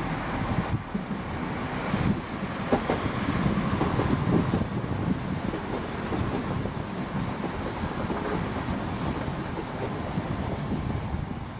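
Chiltern Railways diesel multiple unit running through the station, a steady engine and wheel rumble with a few knocks from the wheels, and wind buffeting the microphone. It fades a little near the end.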